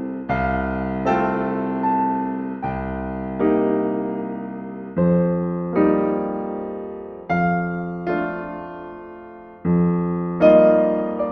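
Slow, gentle solo piano music: chords struck roughly once a second, each ringing out and fading before the next.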